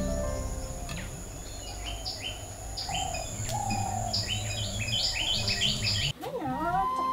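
Garden bird singing: a run of short, high chirps repeated again and again, coming faster toward the end. About six seconds in it cuts off and flute music begins.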